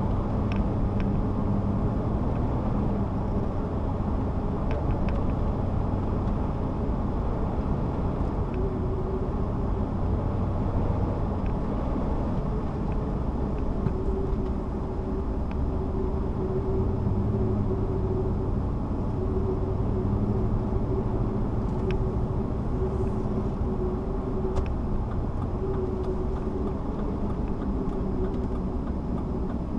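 Car driving at steady speed, with a continuous low rumble of road and engine noise inside the cabin and a faint hum that comes and goes.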